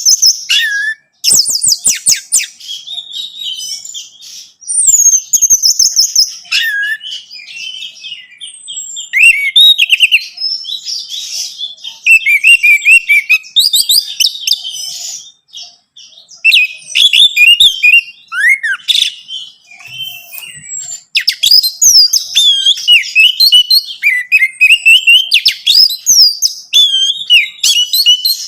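Orange-headed thrush singing a long, varied song of quick whistled phrases and rapid trills, with only brief pauses.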